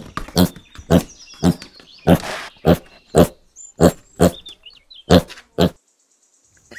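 Young domestic pigs grunting, short grunts coming about twice a second. They stop about a second before the end.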